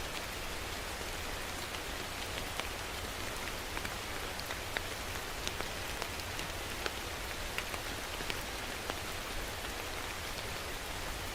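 Steady rain falling, an even hiss with many distinct drops ticking sharply on a surface and a low rumble underneath.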